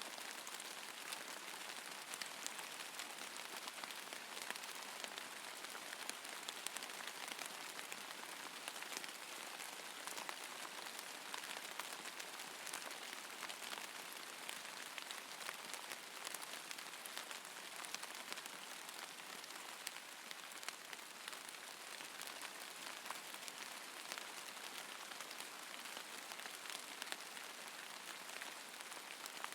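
Steady rainfall: an even hiss of rain dotted with fine drop ticks.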